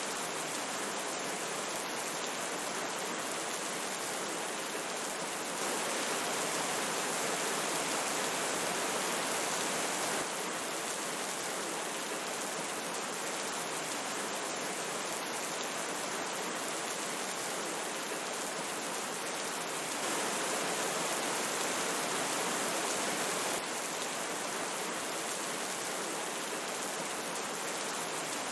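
Steady rain together with a rushing forest stream, an even unbroken hiss of water. It gets slightly louder for about four seconds on two occasions, stepping up and down abruptly each time.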